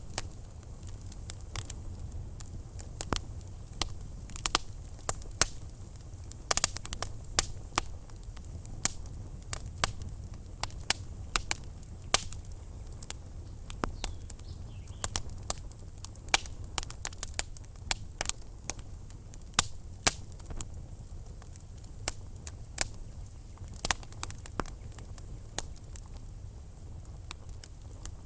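Wood fire crackling in a fireplace: frequent sharp, irregular pops and snaps over a steady low rumble and soft hiss.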